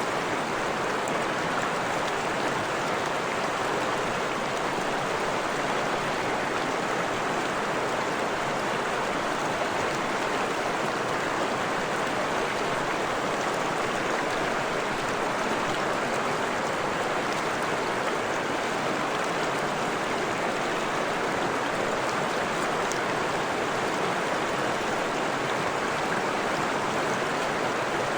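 Freshwater stream flowing over rocks, a steady rushing and babbling of water.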